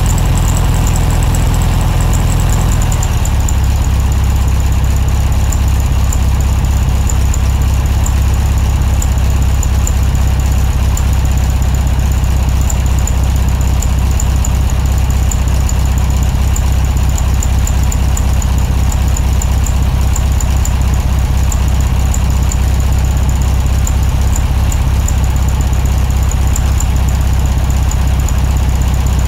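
Air-cooled VW Beetle flat-four engine running steadily, with a thin high whine over the low engine note.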